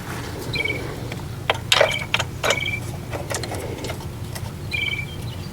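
A few sharp metallic clicks and clinks, bunched about a second and a half to two and a half seconds in, as bolts are picked up and set in place on the generator engine, over a steady low hum.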